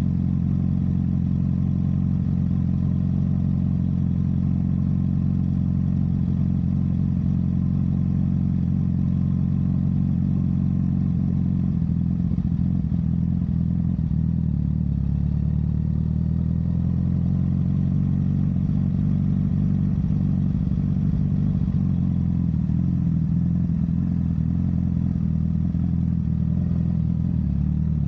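Honda CBR1000RR's inline-four engine running steadily through a Yoshimura exhaust, its pitch dipping slightly for a few seconds around the middle.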